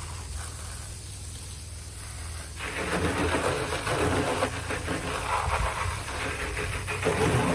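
Water from a garden hose spraying onto a metal fertilizer spreader, the hiss of the spray starting about two and a half seconds in, over a steady low hum.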